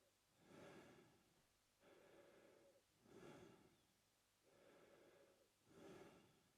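A man breathing slowly and quietly in and out through his mouth, about three full breaths. Each is a short, louder breath followed by a longer, softer one.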